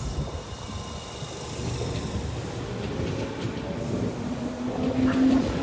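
Tobu Railway electric commuter train moving slowly along the platform: a low rumble of wheels and running gear, with a motor tone rising in pitch near the end as the train gathers speed.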